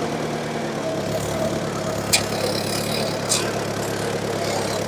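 1954 Ford NAA tractor's four-cylinder gasoline engine running steadily, with two short sharp clicks about two and three seconds in.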